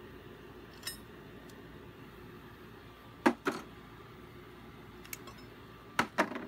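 Brake pads with metal backing plates being handled and set down: a few sharp metallic clinks, the loudest in two close pairs, one about halfway through and one near the end.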